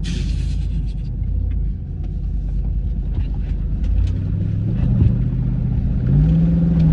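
Truck engine and exhaust rumbling, revving up about four seconds in, then holding a higher rev for about a second and a half near the end before dropping back.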